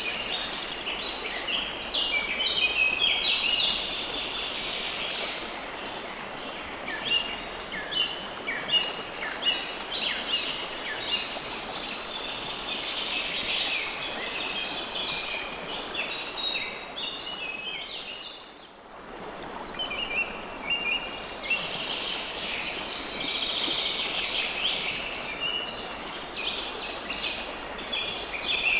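Flowing river water with a dense chorus of small birds chirping over it. Both fade for a moment about two-thirds of the way through, then come back.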